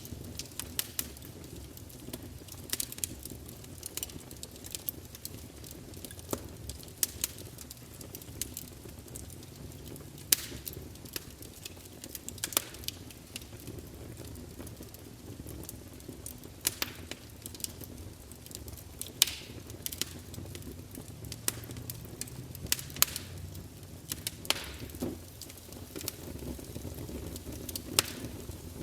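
Campfire crackling: irregular sharp pops and snaps, a few of them louder, over a steady low rumble of the burning fire.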